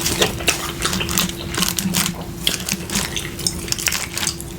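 Close-miked eating: wet chewing and smacking of saucy chicken wings, a dense run of irregular sharp clicks, over a faint steady hum.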